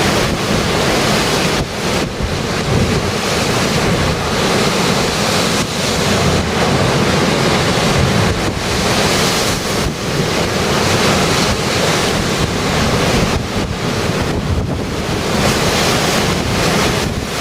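Storm surf crashing at high tide in a strong gale, with heavy wind buffeting the microphone.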